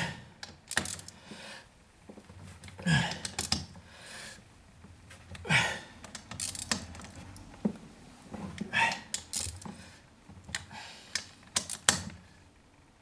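Irregular clicks and clatter of hand tools on the metal parts of a Husqvarna 240 chainsaw being reassembled, coming in small bunches every few seconds.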